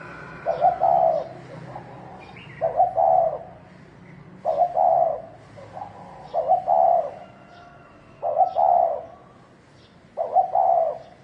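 Spotted dove cooing its 'thổ' song, the repeated call that provokes rival males. It gives a short phrase of a few notes about every two seconds, six times.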